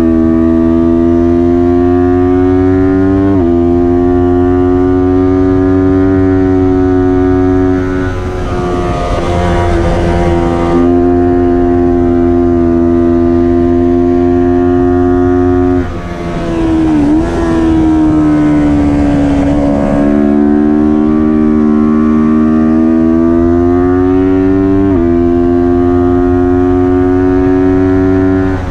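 Kawasaki Ninja 400's parallel-twin engine running hard at high revs, its pitch climbing steadily and dropping sharply at each upshift: once a few seconds in and twice more in the second half. About a third of the way through the note turns rough and unsteady for a few seconds, and just past halfway it briefly dips in level and pitch as the throttle comes off, then climbs again.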